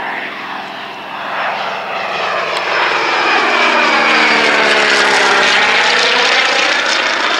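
Single-engine piston propeller airplane making a low pass, its engine steady and growing louder to a peak about halfway through before easing off slightly.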